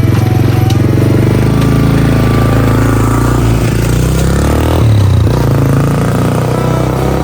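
Motorbike engine running steadily under way, its pitch shifting briefly about five seconds in.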